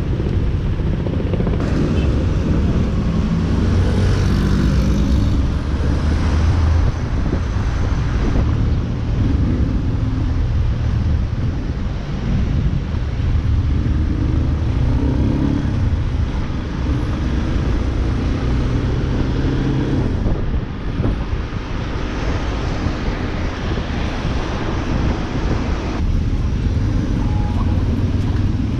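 Yamaha Lander 250's single-cylinder engine running while the motorcycle is ridden through city traffic, its pitch shifting with the throttle, over a steady rush of wind noise.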